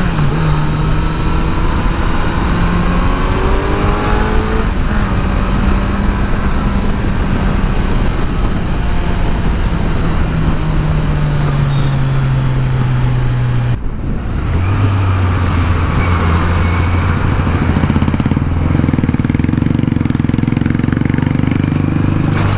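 Kawasaki Z900's inline-four engine under way, rising in pitch over the first few seconds and then holding a steady note that slowly sags. About fourteen seconds in the note drops abruptly and it settles into a lower, steady drone, with steady wind and road noise throughout.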